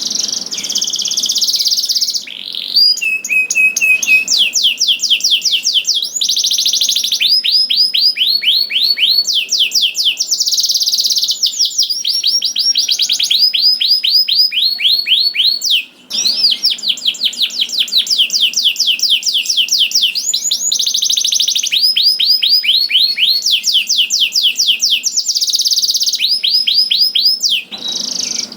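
Domestic canary singing a long, continuous song: fast trills of repeated sweeping notes, one run after another, each phrase switching to a new note type. The song breaks off briefly about sixteen seconds in and again near the end.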